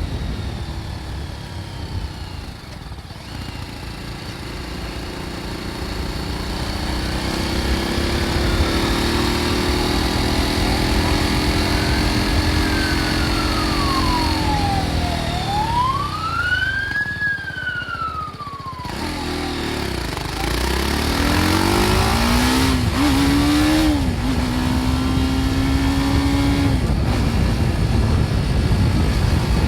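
BMW G310 R's single-cylinder engine on its original exhaust, under way with wind rush. It drones steadily, eases off about halfway through, then revs up through a few quick gear changes and settles into a steady cruise.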